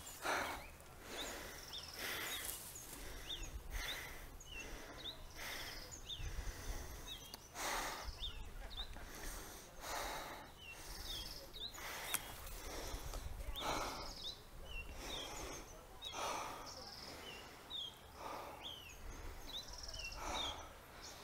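Small birds chirping outdoors: many short, high notes, some rising and some falling, repeated throughout. Under them are soft, faint bursts of noise every second or two.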